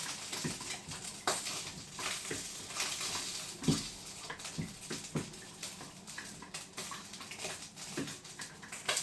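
A utensil stirring floured potato pieces through a bowl of egg and milk: irregular clinks and knocks against the bowl, with soft wet sloshing.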